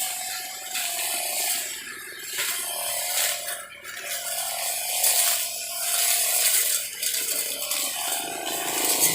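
A small high-revving power-tool motor running steadily, with a wavering whine and a gritty hiss that dips briefly a few times.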